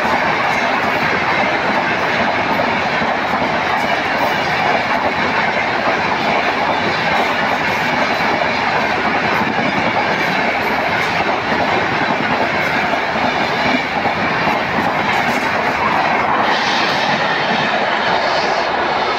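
Passenger coaches of the Rajdhani Express running through a station at high speed without stopping: a steady, loud rush of wheels on rail with a fast clatter over the rail joints.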